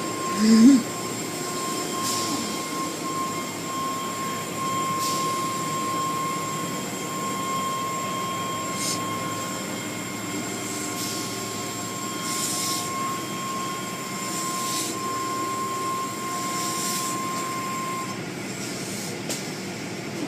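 Automatic car wash machinery running: a steady motor whine over the hiss of spraying water, with repeated short surges of spray. The whine cuts off near the end as the machine stops.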